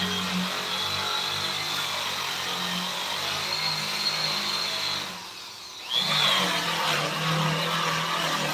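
Electric power tool running with a steady high whine over a low hum. It cuts out about five seconds in, then spins back up with a rising whine a second later.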